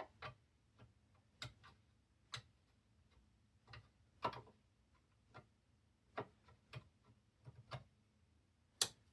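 Irregular light clicks and taps of plastic and metal parts being handled and fitted while a Sony CDP-CX355 CD changer is reassembled. There are about twenty faint clicks, with a sharper click near the end.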